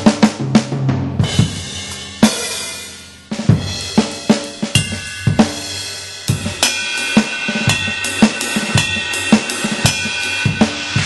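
Electronic drum kit on a 2Box drum module playing sampled Fibes drum kit sounds, triggered from the pads: a beat of snare, bass drum and hi-hat with tom hits. A cymbal crash about two seconds in rings out for about a second, then the playing starts again with more cymbal hits.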